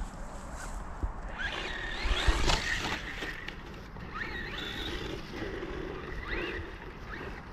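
Small 1/18-scale RC truck's electric motor whining up and down in repeated throttle bursts, with a single thump about two and a half seconds in.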